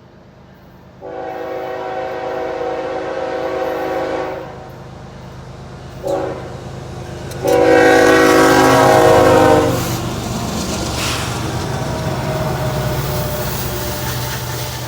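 Freight train's diesel locomotive air horn sounding a multi-note chord in three blasts: a long one about a second in, a brief one around six seconds, then a longer, louder one. After that the Kansas City Southern locomotives and the train's cars rumble steadily past.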